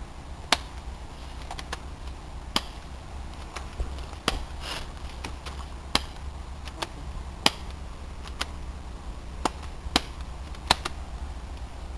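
Airsoft guns firing single shots, about ten sharp cracks at irregular intervals, over a low rumble of handling or wind noise on the microphone.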